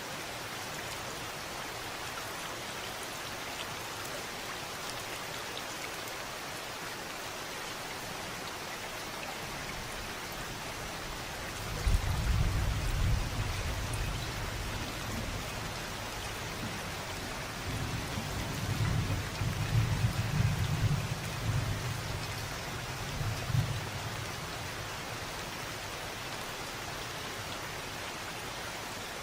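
Steady rain falling, with two low rolls of thunder: one starting suddenly about twelve seconds in and fading over a few seconds, and a longer rolling one from about eighteen seconds in.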